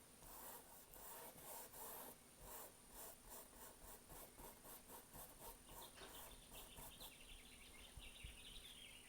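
Faint paintbrush strokes rubbing across the painting surface, about three or four a second, thinning out after about seven seconds.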